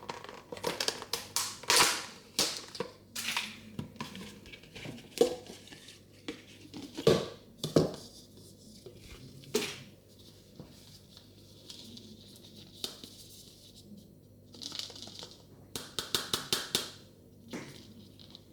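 Hands unwrapping a Mini Brands surprise ball: plastic packaging crinkling and tearing, with sharp clicks and taps of small plastic pieces. It is busiest in the first half, then a short rustle and a quick run of clicks near the end.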